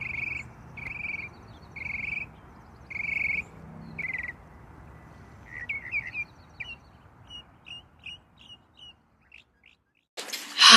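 Birdsong: a bird repeating one short call about once a second, five times, then a run of quicker, shorter chirps that thin out. Near the end a sudden loud rush of noise cuts in.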